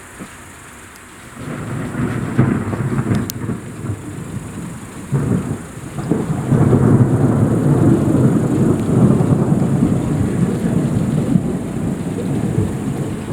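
A long roll of thunder: it breaks in about a second in, crackles and rumbles, and grows louder, staying loudest through the second half.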